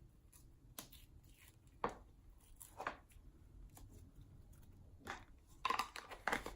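Slime being handled and taken out of its container by hand: faint, irregular sticky squishes and small clicks, bunching together near the end.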